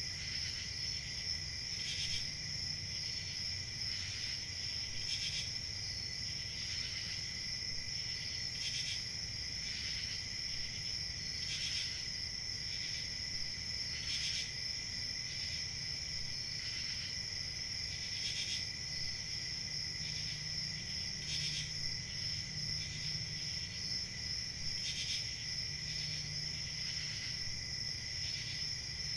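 Crickets chirping in a continuous chorus: a steady high trill, with louder pulses coming every second or two, over a faint low rumble.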